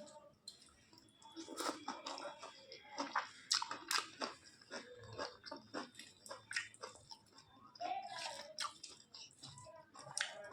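Close-miked eating: a person chewing a mouthful of rice and curry, with irregular wet smacks and clicks.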